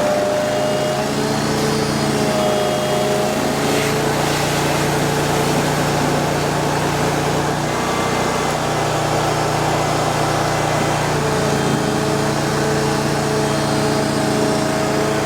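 Ditch Witch FX20 vacuum excavator running steadily: its engine and vacuum blower hold a constant, even drone.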